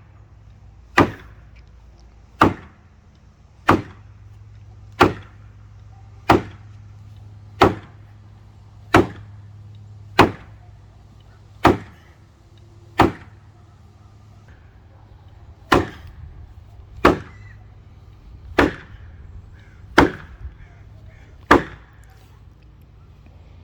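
Fence post being driven into the ground with a heavy hammer: about fifteen evenly spaced blows, roughly one every 1.3 seconds, with a short pause about two-thirds of the way through.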